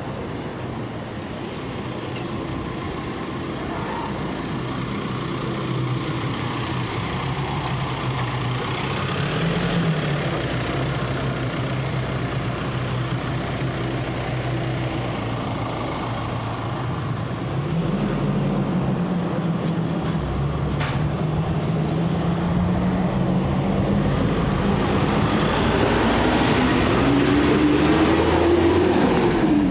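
A motor vehicle's engine running, growing louder, its pitch rising steadily through the second half and then dropping sharply near the end as the vehicle draws close and goes past.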